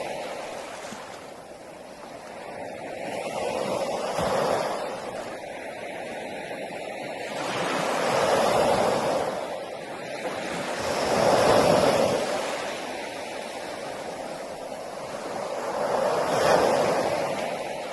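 Ocean surf: four waves break one after another, a few seconds apart, each a rising and falling rush of noise.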